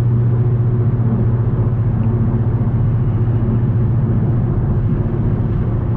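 Car engine droning steadily at a constant speed while driving.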